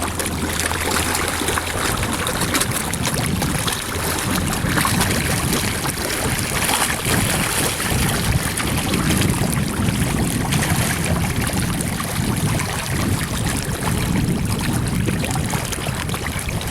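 Steady splashing and churning of water as a mass of carp thrash at the surface for thrown bread, with wind buffeting the microphone.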